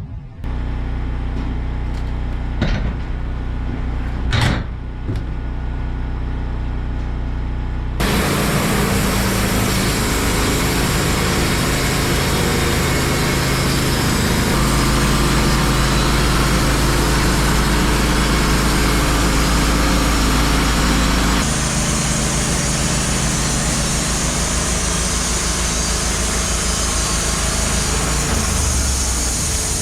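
Wood-Mizer LT15 Wide sawmill's engine running steadily with two sharp clicks. About eight seconds in, a loud, steady hiss of the band blade sawing through a hemlock log joins it and lasts to the end.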